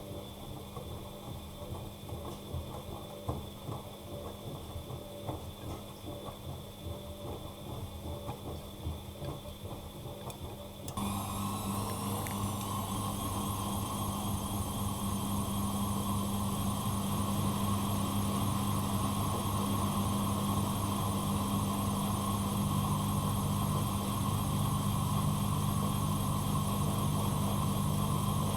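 Bosch WFCX2440 front-loading washing machine running its cycle: the drum tumbles with soft irregular knocks, then about eleven seconds in the motor steps up with a rising whine and the machine runs louder and steadily with a low hum.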